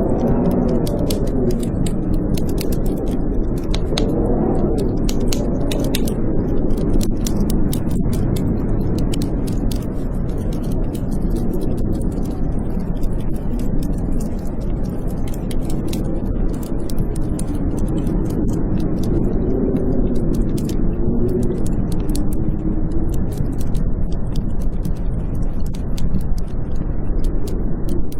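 Blizzard wind howling in slow rising and falling tones over a steady low rush, with a wood fire crackling in many quick, sharp pops.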